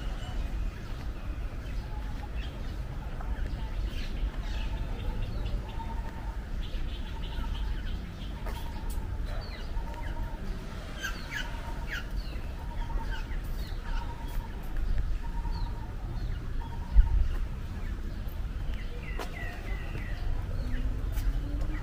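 Outdoor birds chirping, with quick short calls and a run of evenly repeated mid-pitched notes through most of it, over a steady low rumble. One sharp thump about three-quarters of the way through.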